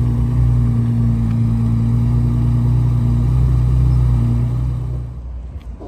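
Toyota Supra Mark III engine idling steadily in a low, even tone, which drops away about five seconds in.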